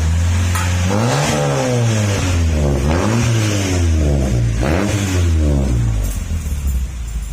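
Honda Accord engine revved three times through a newly fitted aftermarket racing exhaust. The pitch rises and falls with each throttle blip, then drops back toward idle near the end.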